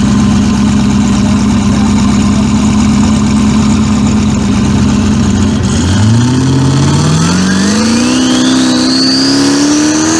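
Turbocharged 1998–2002 Chevrolet Camaro engine idling with a choppy beat. From about six seconds in, the revs climb steadily as the car does a burnout, and a high turbo whine rises along with them.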